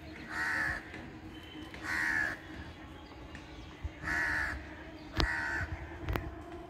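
A bird calling four times, each call about half a second long and spaced a second or two apart, with two sharp clicks near the end.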